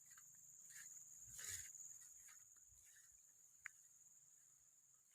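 Near silence: faint outdoor ambience with a steady high insect drone, a soft rustle about a second and a half in, and one short sharp click later on.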